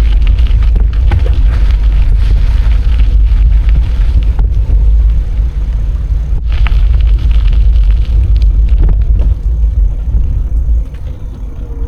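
Heavy wind rumble on the microphone of a camera riding along on a moving bicycle, with scattered knocks and rattles. The rumble eases about eleven seconds in.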